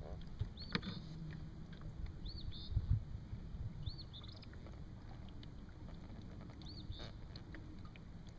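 A bird calling repeatedly, a short high arching note followed by a quick burst, about every two seconds, over a low rumble of wind and water. A few knocks from gear being handled in the boat, the loudest about three seconds in.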